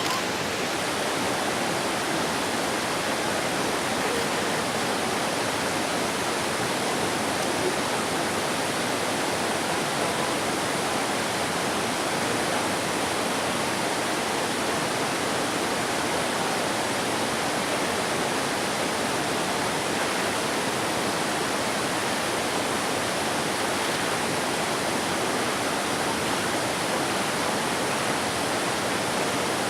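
Steady, even rush of flowing water, like a stream or small waterfall, with no birdsong standing out above it.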